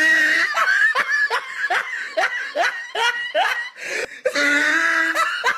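A person laughing hard: a run of short gasping laughs, two or three a second, then a longer drawn-out laugh near the end.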